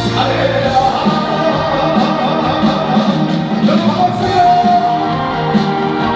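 Live trot song played by a band over a loud sound system, with a singer's voice carrying the melody.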